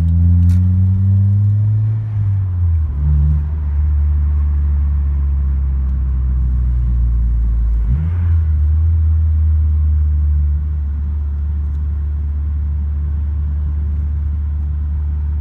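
Honda Civic's engine heard from inside the cabin with the sunroof open while driving: it climbs in pitch as the car accelerates, drops about two seconds in and shifts again near eight seconds, then runs at a steady cruise.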